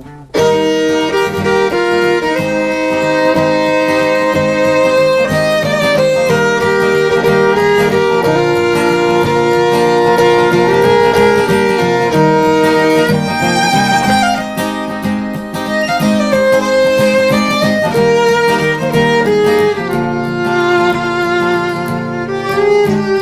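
Violin playing a sustained melody over acoustic guitar accompaniment, an instrumental break between sung verses. It comes in abruptly just after the start.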